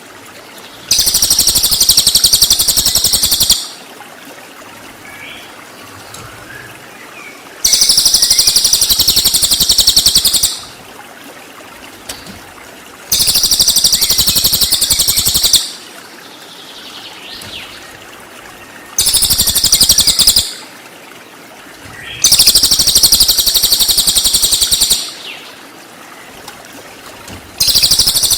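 Cililin bird 'tembakan': loud, high, rapid shrill bursts of about two to three seconds each, repeated six times a few seconds apart, with fainter bird chirps between them. It is a tutor song track meant to be copied by a murai batu (white-rumped shama).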